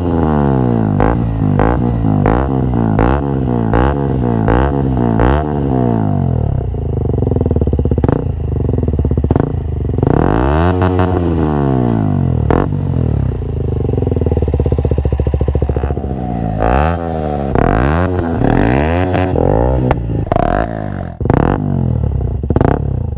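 KTM Duke 125's single-cylinder four-stroke engine revved through a Scorpion Carbon exhaust with the dB-killer removed. At first it takes quick throttle blips about once a second, then a held rev and a few longer rises and falls, and a run of short blips near the end.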